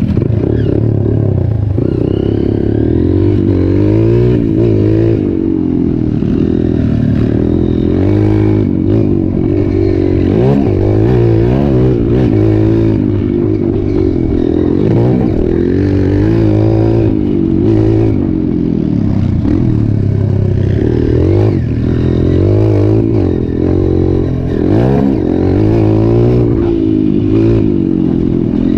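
Trail motorcycle engines running and revving, the pitch rising and falling again and again.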